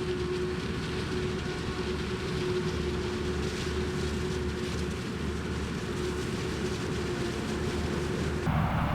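Heavy farm machinery running steadily: a low engine rumble with a steady mid-pitched hum over it.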